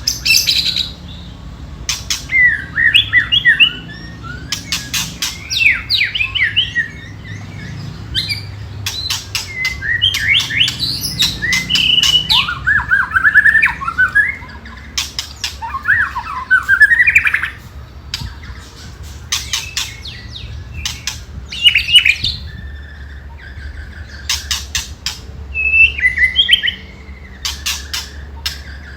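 White-rumped shama (murai batu) singing short whistled phrases broken up by runs of sharp rattling clicks, the 'ketrekan' rattle of an agitated, fighting shama.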